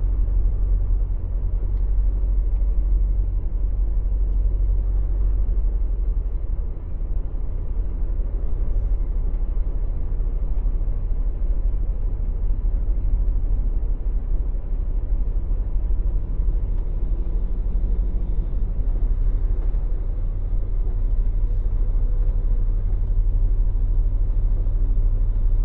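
Semi truck's diesel engine and drivetrain heard from inside the cab while driving, a steady low drone that runs on unbroken.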